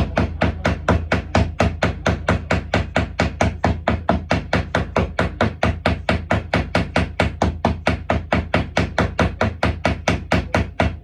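Hammer peening copper boat nails over roves in a steady fast run of light blows, about four a second, with a steady low hum underneath.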